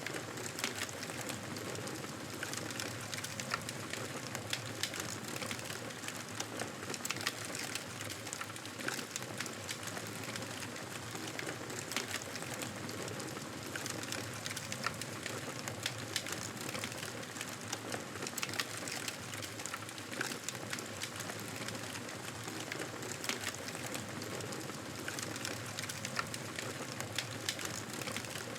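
Crackling fire in a fireplace: a steady hiss with frequent small, sharp pops and crackles at irregular intervals.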